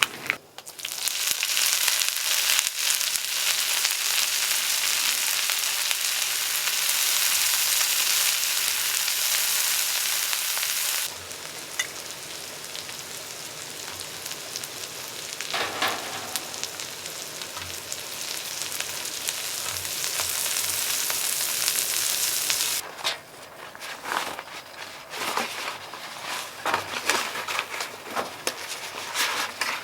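Food sizzling in a hot pan, loud at first, then dropping suddenly to a quieter sizzle about a third of the way through. Near the end it gives way to irregular clicks and scrapes.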